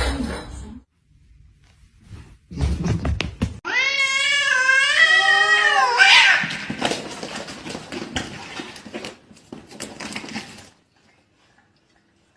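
Cats fighting: one long, wavering yowl about four seconds in lasting about two seconds, then a noisier stretch of scuffling that dies away near the end.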